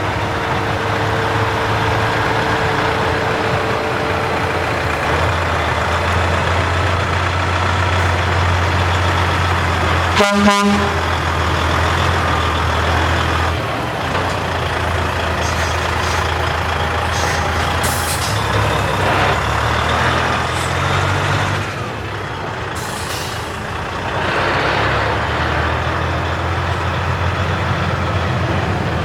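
Heavy trucks' diesel engines running as they drive past, with a short horn blast about ten seconds in and brief hisses of air brakes later on.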